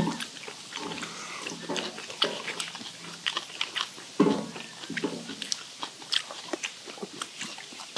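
People chewing steamed skate and bean sprouts: many quick wet smacks and small crunches of mouths eating, with a few short low hums or grunts between bites.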